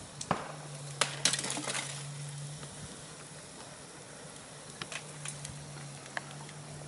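A burning car crackling, with scattered sharp pops and snaps, a cluster about a second in and a few more near five and six seconds, over a steady low hum.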